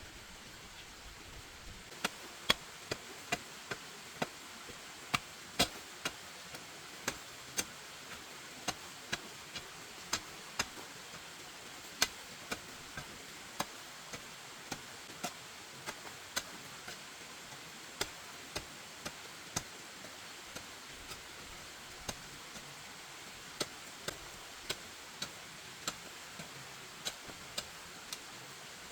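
A series of short, sharp taps or knocks, irregularly spaced about one to two a second, starting about two seconds in, over a steady background hiss.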